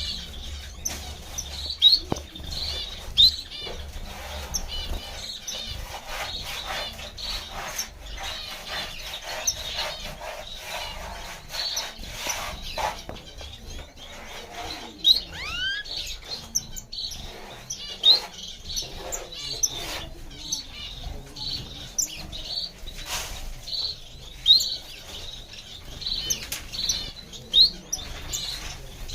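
Diamond firetail finches calling with short, sharp chirps every second or two, with a couple of rising whistled notes about halfway through. Brief fluttering and rustling sounds run underneath.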